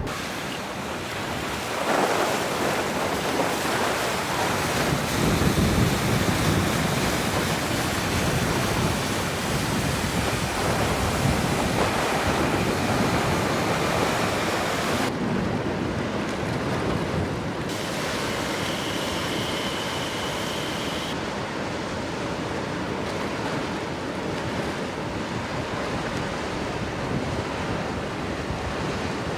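Steady rushing noise of wind buffeting the microphone over moving river water, louder for the first half and a little softer later.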